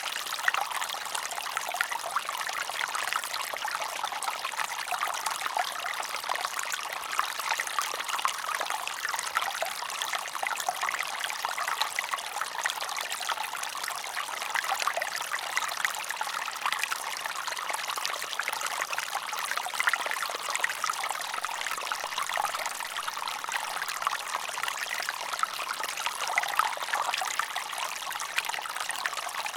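Water trickling steadily, as of a small stream, a light flowing sound with no deep rumble.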